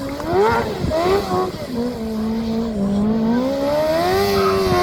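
Racing motorcycle engines running at high revs on the circuit, their pitch rising, holding and falling as the bikes accelerate and pass.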